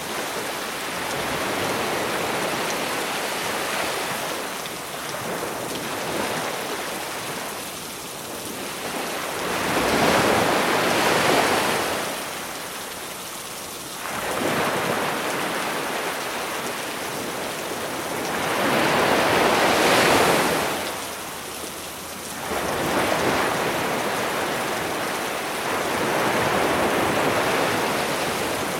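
Sea waves breaking and washing up the shore in slow surges every few seconds, the loudest about ten and twenty seconds in, over a steady hiss of rain.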